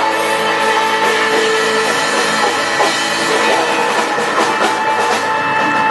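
Band music with a drum kit and guitar playing steadily.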